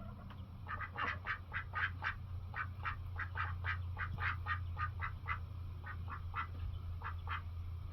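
Domestic ducks quacking in a rapid run of short calls, about three a second, over a steady low hum.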